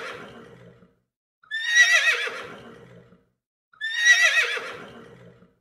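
Horse whinnying. The same quavering whinny repeats about every two and a quarter seconds, each one fading out.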